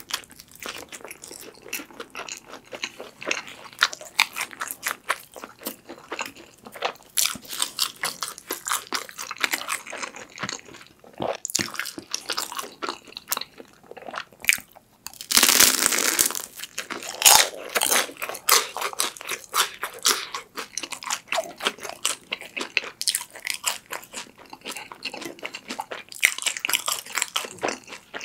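Close-miked crunchy chewing of pepperoni pizza and a crisp fried sweet potato cheese stick, with a loud crunching bite about fifteen seconds in.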